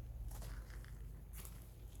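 Scattered soft crackles and rustles, a few in quick succession, over a steady low rumble.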